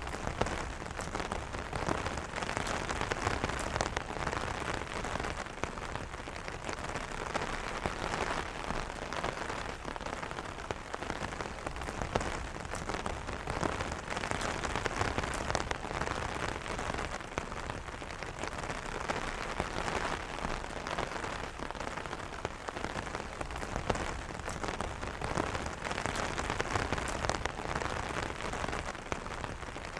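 Steady rain pattering on an umbrella canopy, a dense continuous hiss of drops with many small individual drop ticks.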